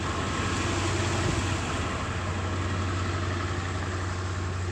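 Party bus engine idling with its air conditioning blowing: a steady low hum under an even hiss of air.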